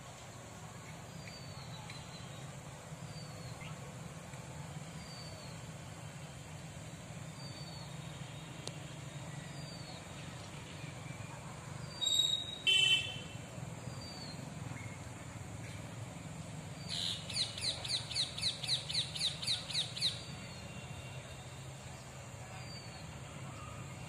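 Birds calling over a steady low rumble: faint short falling chirps about once a second, a loud call about halfway through, and a quick run of about a dozen shrill notes a few seconds later.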